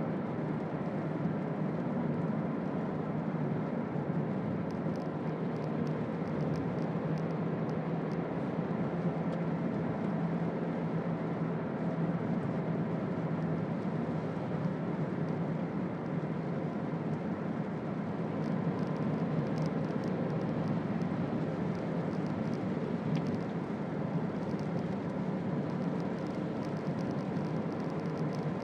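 Toyota Auris 1.4 D-4D four-cylinder turbodiesel cruising at a steady pace, its engine running evenly under road and tyre noise in the cabin. Faint light ticking comes and goes over it.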